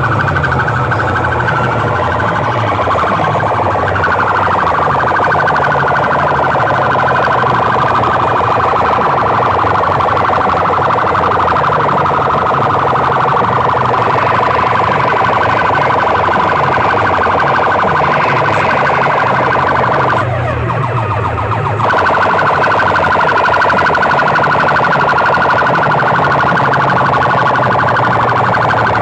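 Loud siren-like warbling alarm effect played through large DJ sound-box speakers, over a pulsing low bass; it thins out briefly about twenty seconds in, then comes back.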